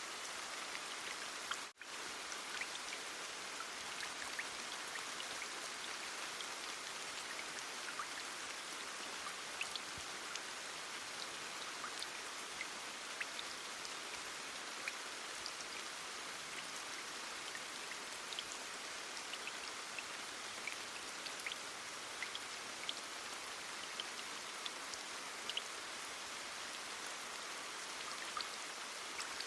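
Heavy rain falling steadily, with scattered sharp drop impacts. The sound cuts out for a split second about two seconds in.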